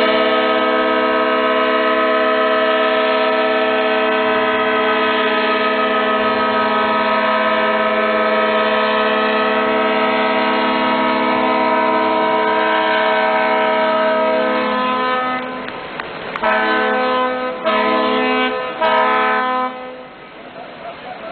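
Ship's horn sounding one long, loud blast of about fifteen seconds, then a few shorter blasts.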